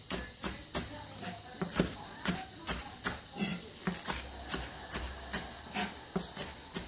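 Knife chopping green onion on a cutting board: steady, even strokes, about three a second.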